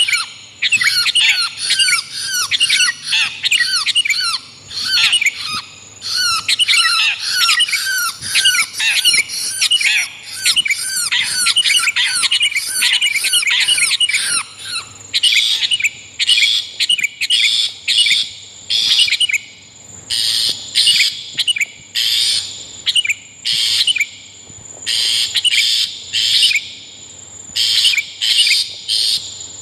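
Long-tailed shrike and sooty-headed bulbul calls from a bird-lure recording: a fast, unbroken run of quick downward-sweeping notes for about the first half, then separate short bursts of harsh calls with a thin steady high whistle behind them.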